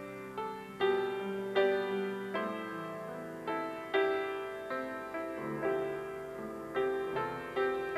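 Piano playing a slow, gentle piece: chords and melody notes struck and left to ring and fade.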